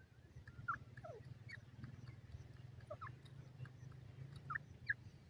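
Faint, short falling squeaks from a small animal, about a dozen scattered irregularly, over a low steady hum.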